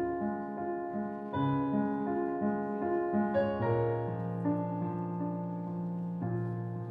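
Solo piano playing a slow, gentle passage: a repeated figure of short notes over held chords, then sustained low bass notes, with a new chord struck near the end.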